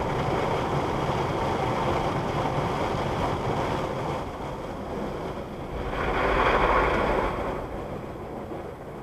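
Automatic car wash jets spraying water onto the car, heard from inside the cabin as a steady rushing hiss. It starts suddenly, dips about halfway through, swells again around two-thirds in, then eases off.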